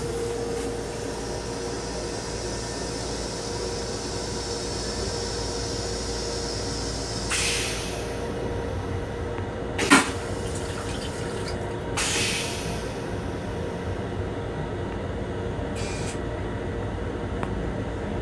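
Steady hum and rumble of a Metro-North M7 railcar heard inside its small restroom. A sharp knock comes about ten seconds in, with short hissing bursts a couple of seconds before and after it.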